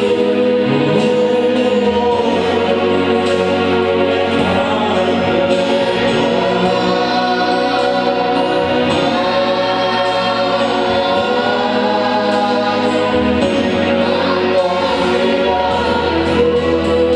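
A gospel choir sings a slow, sustained worship song over instrumental accompaniment, with steady low bass notes that change every few seconds.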